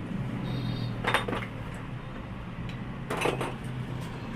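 Metal clinking twice, about a second in and again about three seconds in, over a steady low hum.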